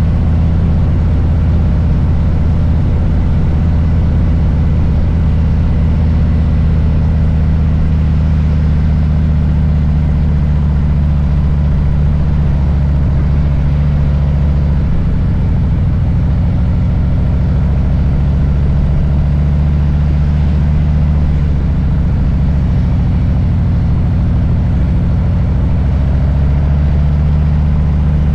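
Harley-Davidson Low Rider S's Milwaukee-Eight 114 V-twin running at low, steady revs. Its note shifts a little about halfway through and again near the end.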